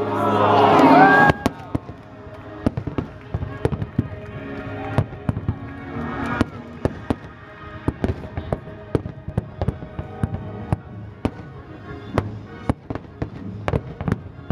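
Fireworks exploding in irregular sharp bangs and crackles, heard over the fireworks show's music. The loudest stretch is a dense swell in the first second or so, which falls away abruptly.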